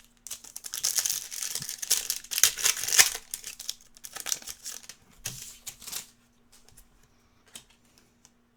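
Foil wrapper of a trading-card pack being torn open and crinkled, a dense crackling that lasts about six seconds. It thins out to a few light clicks as the cards are handled.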